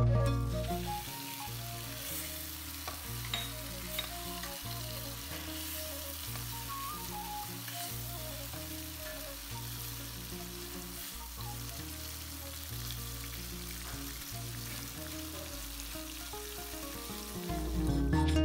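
Prawns in masala frying on high heat in a stainless steel pan, sizzling steadily, with a few light ticks of the spatula against the pan early on. Soft music sits underneath, and it gets louder near the end.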